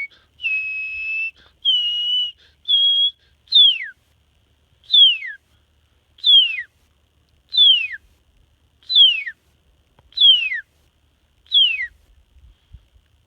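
A man whistling an imitation of a birdcall. It opens with three held notes, each a step higher than the last, then goes into seven evenly spaced notes a little over a second apart, each one sliding downward.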